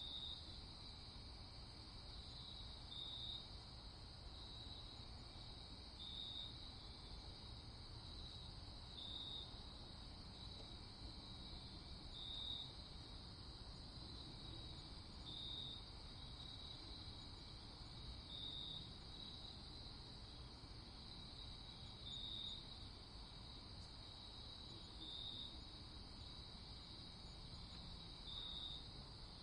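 Crickets chirping in a steady night chorus, with one louder chirp about every three seconds, over a faint low rumble.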